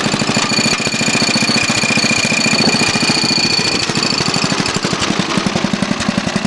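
11-horsepower lawn mower engine running steadily just after starting, a fast even train of exhaust pulses. A steady high whine rides over it for the first four seconds or so.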